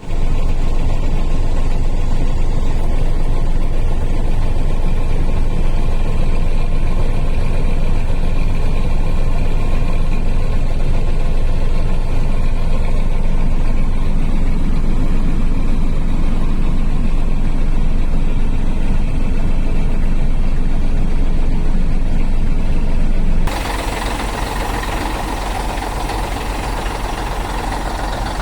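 Heavy truck's diesel engine running steadily, low and loud. About 23 seconds in, it cuts abruptly to a quieter, thinner engine sound.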